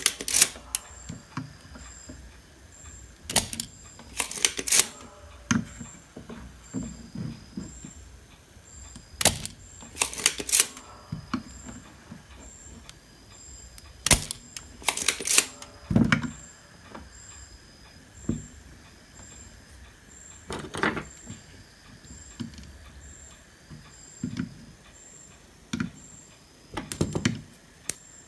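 Irregular sharp clicks and taps, some in quick pairs, from hand tools working on a circuit board during desoldering, where the old solder will not melt. A faint high-pitched pulse repeats steadily about every two-thirds of a second.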